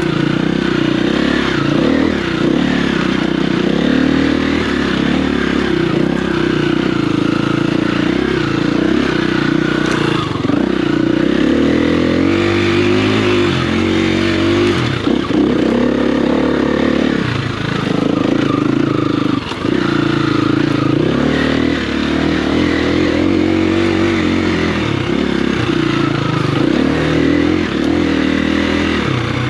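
Dirt bike engine running under load as it is ridden, its pitch rising and falling repeatedly with the throttle.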